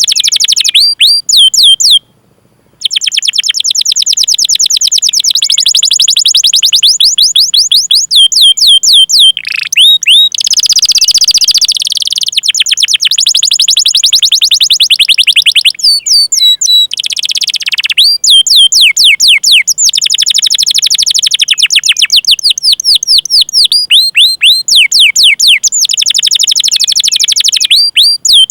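Domestic canary singing loudly: long rolls of fast, repeated falling chirp notes with a few short pauses between phrases.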